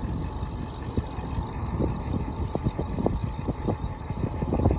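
Low wind rumble on the microphone while riding along a road, with scattered small knocks and rattles.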